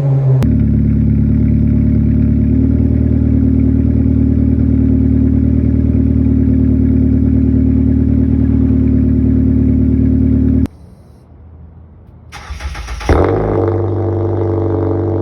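Exhaust of a 2010 Ford Fusion's 2.5-litre inline-four, straight through with the resonator and muffler deleted, running at a steady note. It cuts off abruptly about 10 seconds in and goes quiet for a couple of seconds. It then comes back with a sudden loud burst and settles into steady running.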